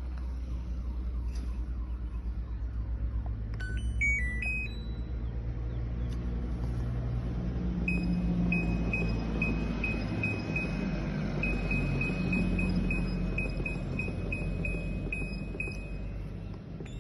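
Hisense washing machine's electronic control panel sounding a short stepped tune of beeps, then a long run of quick, evenly spaced beeps at one pitch, over a steady low hum.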